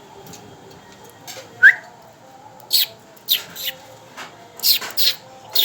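Budgerigars chirping: a string of short, sharp high calls, the loudest a quick rising chirp about a second and a half in, followed by a quicker run of chirps in the second half.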